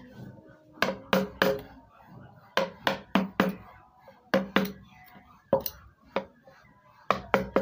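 Wooden mallet striking a carving chisel into wood: sharp, slightly ringing knocks in short runs of two to four, with brief pauses between runs.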